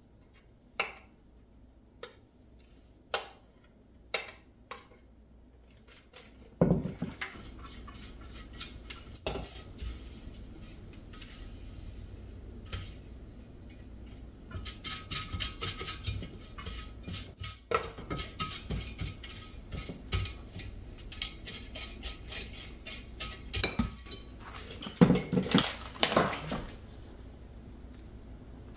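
Dishes and metal utensils clinking: a few sharp, spaced clinks at first, then from about seven seconds in a busier run of clattering over a steady hiss.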